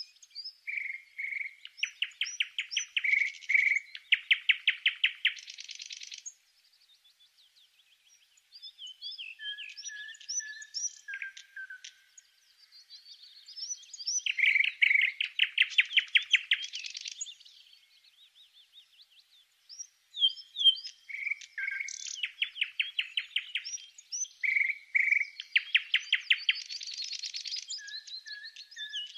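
A songbird singing several long, varied songs of rapid trills and sharp chirps, with short pauses between them.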